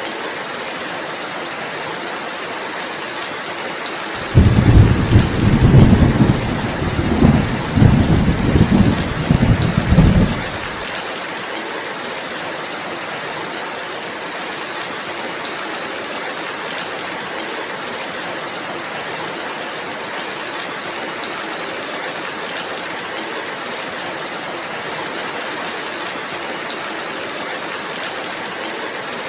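Steady rain falling, with a roll of thunder starting suddenly about four seconds in. The thunder rumbles in several surges for about six seconds, then fades back into the rain.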